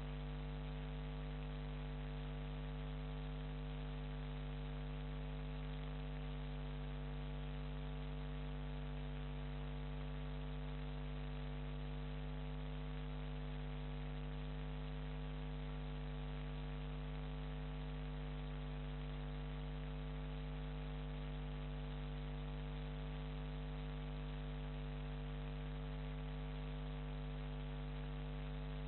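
Steady electrical mains hum with a buzzy stack of overtones and a constant hiss, unchanging throughout.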